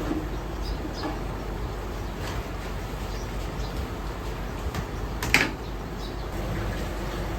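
Steady hum of a commercial ramen kitchen with scattered clinks and knocks of utensils and pots, and one louder sharp clatter about five seconds in.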